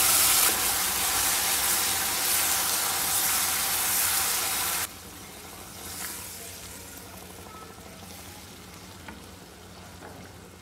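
Onion-tomato paste sizzling as it hits hot oil and butter in a frying pan, stirred with a spatula. The loud sizzle drops off abruptly about five seconds in, leaving quieter stirring and simmering.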